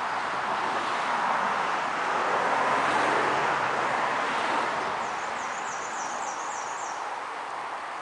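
A steady outdoor rushing noise that swells in the middle and then fades. About five seconds in, a small bird gives a high trill of quick repeated notes, about four a second, for two seconds.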